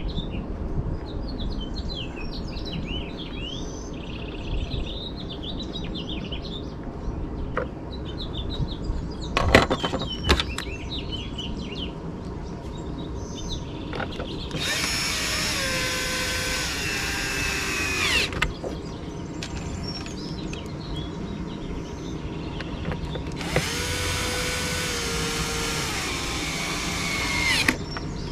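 An electric drill run in two bursts of about four seconds each, about halfway through and near the end, its pitch stepping down slightly as it runs. A few sharp clicks come before the first burst, and faint birdsong is heard early on.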